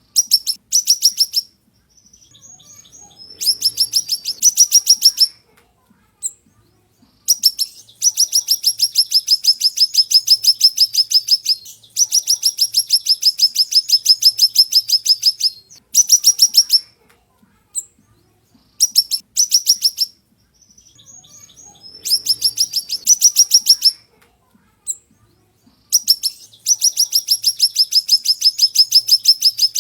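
A siri-siri songbird singing a sharp, high, rapid trill. The notes repeat quickly and evenly in bursts, some about a second long and others running about four seconds, with short pauses between them.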